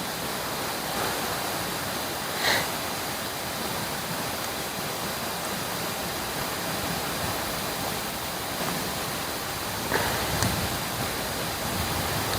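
Campfire burning with a steady hiss and two sharp pops, one a couple of seconds in and one near the end.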